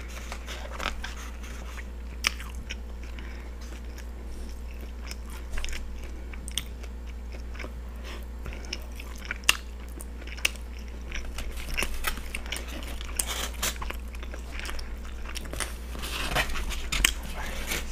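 Close-miked chewing of a mouthful of steak and cheese sub on peppers and onions, with scattered sharp mouth clicks, busier near the end. A steady low hum runs underneath.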